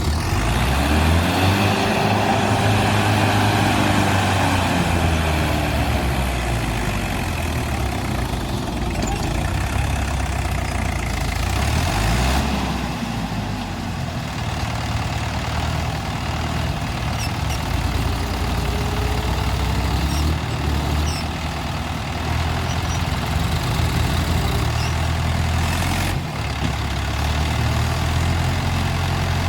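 Tractor engine running steadily under load, its pitch rising and falling several times as it revs.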